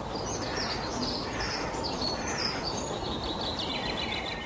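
A songbird singing a quick run of high, varied chirps and trills over steady background noise.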